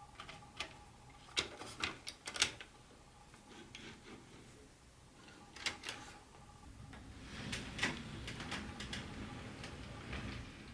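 Model train cars and their packaging being handled: a cluster of light clicks and taps in the first few seconds and two more near the middle, then a few seconds of rubbing and rustling.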